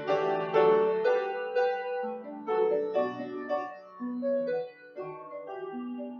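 Piano playing a slow prelude: chords and melody notes struck and left to ring.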